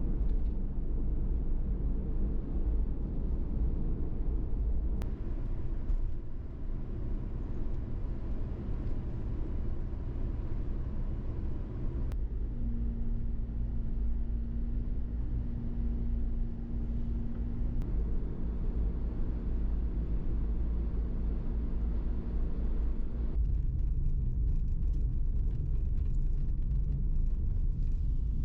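Kei van driving: steady low road and engine rumble, with the sound changing abruptly twice and a steady low hum in the middle stretch.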